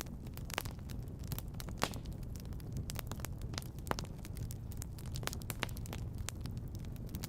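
Wood fire crackling in a fireplace: irregular sharp pops and snaps, a few louder ones standing out, over a steady low rumble.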